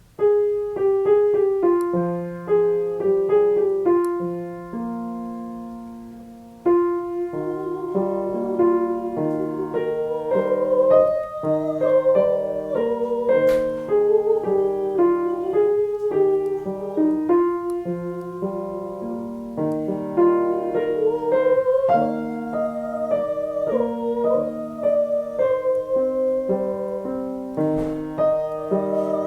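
Piano accompaniment in a voice lesson. It starts alone with a short lead-in. About seven seconds in, a singer joins on a sustained 'oo' vowel, with a wavering melody line over the piano chords.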